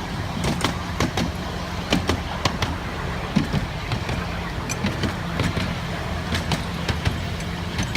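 Miniature railway train running, heard from on board: a steady low rumble and hum with many irregular sharp clicks and knocks.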